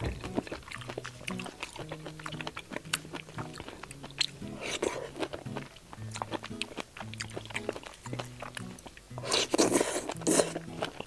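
Close-miked biting and chewing of a juicy fried skewer, with wet mouth clicks throughout and a louder run of crunchy bites about nine to ten seconds in, over background music with a steady low melody.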